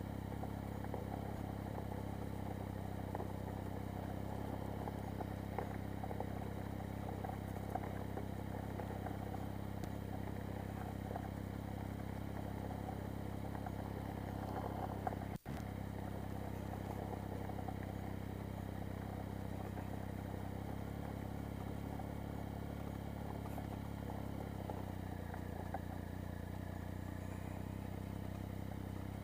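Triumph Speed Triple's three-cylinder engine running at low, steady revs as the bike rolls slowly over gravel, with a crackle of tyres on loose stones. The sound cuts out for an instant about halfway.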